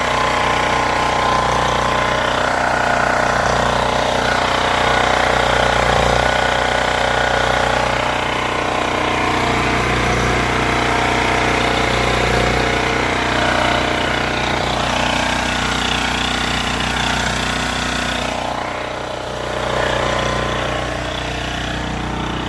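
Champion portable generator's four-stroke engine running steadily, with a brief dip in level near the end.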